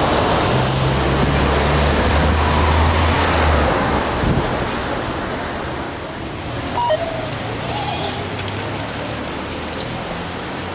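Steady rush of wind and street traffic noise, with a vehicle engine's low hum for the first few seconds that fades out. A brief high chirp comes about two-thirds of the way through.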